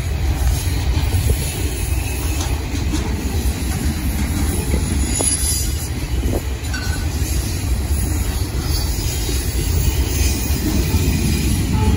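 Boxcars of a freight train rolling past, a steady low rumble of steel wheels on the rails, with a brief faint high wheel squeal about five seconds in.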